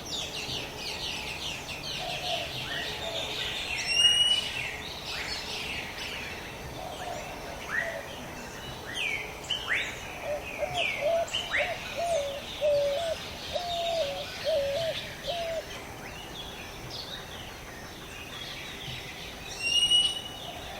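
A chorus of birds chirping and calling over one another, with a run of about eight low whistled notes in the middle. Two brief, loud sharp calls stand out, one a few seconds in and one near the end.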